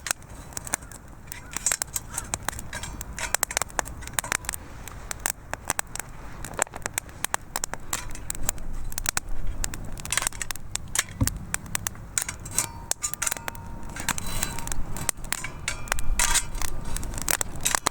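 Small wood fire crackling and popping steadily, with one dull knock about eleven seconds in.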